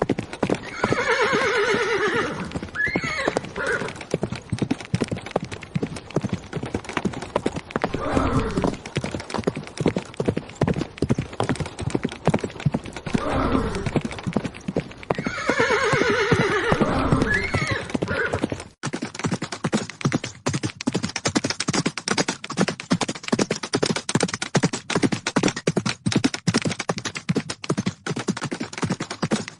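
Horses galloping, with hoofbeats throughout. A horse whinnies twice, about a second in and again about halfway through. The hoofbeats change in character suddenly about two-thirds of the way in.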